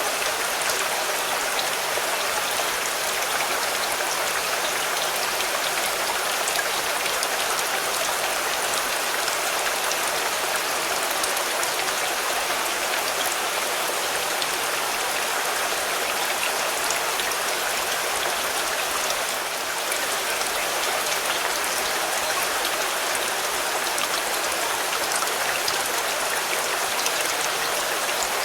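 Steady rain falling on a car's body: a dense, even hiss sprinkled with the fine ticks of single drops, easing very slightly for a moment about two-thirds of the way through.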